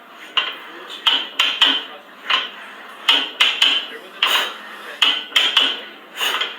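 Metal gym weights clanking: repeated sharp metallic clinks that ring briefly, about two a second at an uneven pace.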